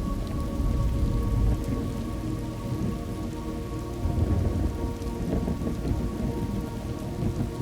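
Thunderstorm ambience: steady rain with a continuous low rumble of thunder that swells and eases. A faint steady tone lies underneath.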